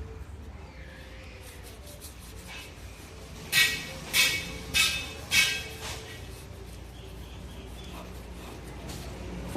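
Hammer striking metal four times in a steady rhythm, a little over half a second apart, each blow ringing, as when forging iron on an anvil.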